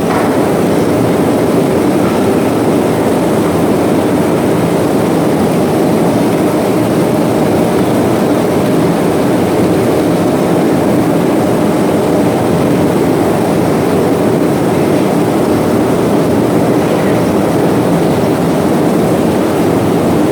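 Loud, steady machinery noise that does not change, with a faint constant hum.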